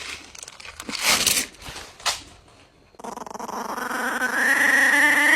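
A few brief noisy rustles, then a long drawn-out animal cry that starts about three seconds in and rises slowly in pitch while growing louder.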